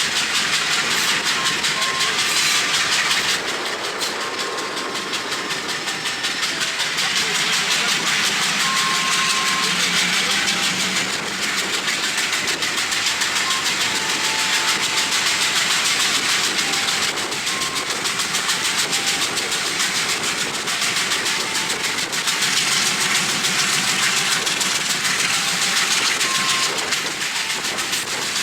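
Wind rushing over the microphone at the window of a moving passenger train, over the train's running noise on the rails. A loud, steady hiss that eases a little now and then.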